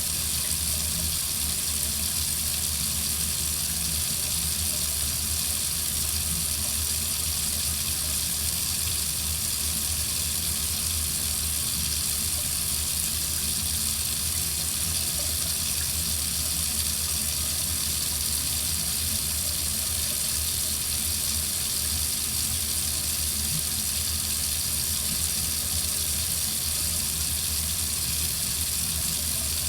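Water running steadily from a faucet into a sink, an even, unbroken splashing rush.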